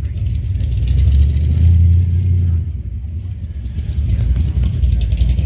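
A car's engine running at low speed, a deep rumble that dips about three seconds in and swells again.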